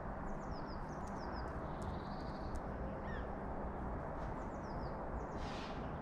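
Small birds chirping in short, high, quickly falling notes, in a run near the start and another about two thirds through, over a steady outdoor background hiss. A brief rushing sound comes just before the end.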